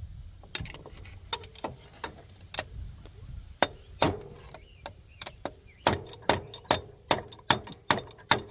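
Hand tools working on metal: scattered sharp clicks and knocks, then from about six seconds in a regular run of sharp metallic taps, two or three a second, each with a brief ring.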